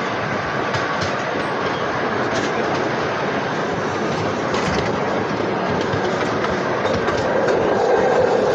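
Freight train rolling along the track, heard from on board a car: a steady, loud rush of running noise with scattered sharp clicks from the wheels over the rails, growing slightly louder near the end.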